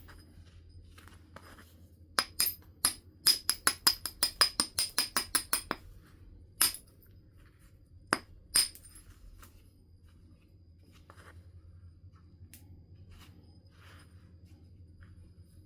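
Flint being knapped: a quick run of sharp, glassy clicks, about five or six a second for some three seconds, then three single louder strikes as the stone is worked.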